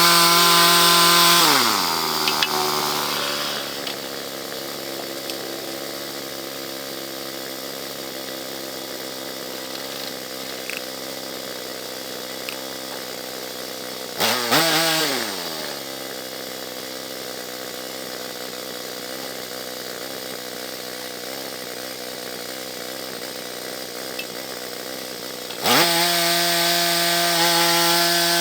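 Small gasoline engine of a bandsaw mill running at full throttle, then dropping to a steady idle within the first few seconds. It revs up and back down briefly about halfway through, then goes back to full speed near the end.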